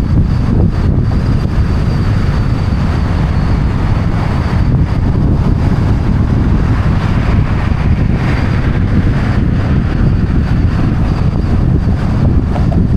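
Wind buffeting the microphones of a roof-mounted 360° camera on a moving car, a loud steady rumble with road noise mixed in.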